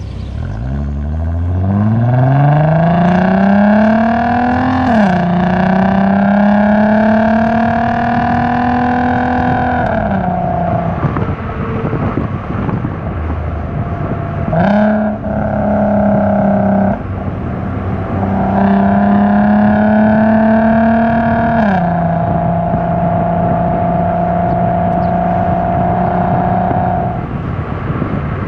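Volkswagen MKV R32's 3.2-litre VR6 through a Tampa-modded Magnaflow exhaust, accelerating from the start with the note rising steeply. About five seconds in, a gear change drops the pitch, and the engine then holds a steady note. It eases off and picks up again several times, with pitch drops around ten, seventeen and twenty-two seconds.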